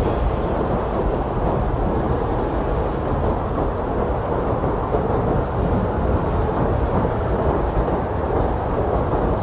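Strong blizzard wind blowing steadily, a dense low rushing rumble with no gusts standing out.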